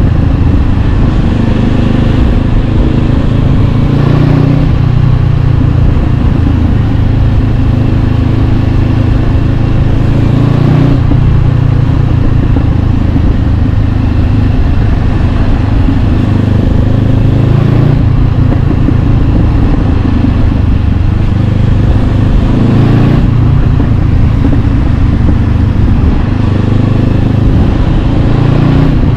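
Honda CB500X's parallel-twin engine through an Arrow Pro-Race exhaust, running under way, its note rising and falling in pitch three times as the revs change.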